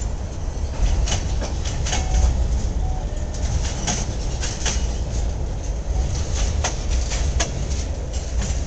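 Freight train cars rolling past with a steady low rumble and irregular clacks and knocks from the wheels over the rail joints.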